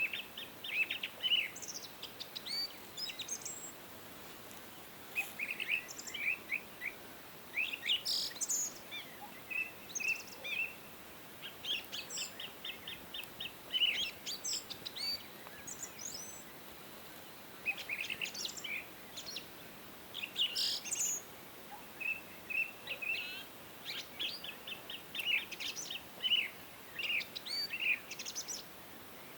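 Several songbirds singing and chirping, short trills and rapid chirp series overlapping, over a faint steady background hiss.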